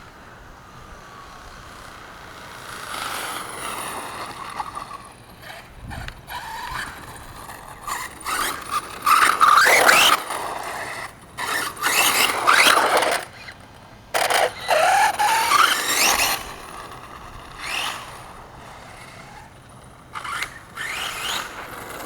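A 1/5-scale Redcat Rampage MT RC monster truck making several fast runs. Its drivetrain whines up and down in pitch as it accelerates and passes, and is loudest about halfway through. It is running well on a freshly replaced rear-differential crown gear.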